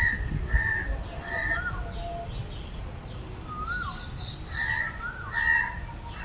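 Crows cawing in short runs of rhythmic calls, about one every 0.7 s, at the start and again near the end. Other birds give rising-and-falling whistles, and a steady high insect drone runs underneath.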